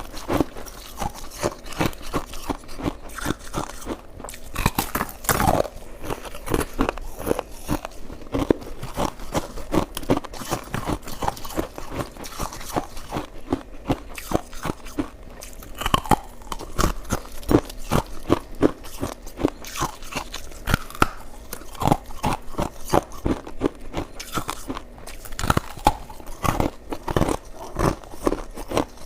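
Close-up crunching and chewing of crushed purple crystal ice: a dense, irregular run of crisp cracks and crackles, bite after bite, with a few louder crunches standing out.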